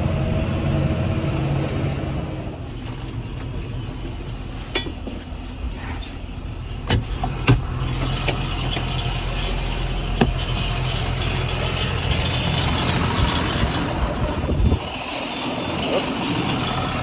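Tractor engine running steadily as a manure spreader unloads its load onto the field. A few sharp knocks and clanks come from the machinery along the way. The engine's low drone drops away near the end.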